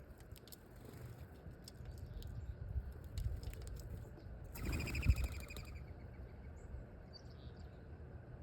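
Small wild birds: scattered light taps, then a brief flurry of wingbeats and chirping about five seconds in.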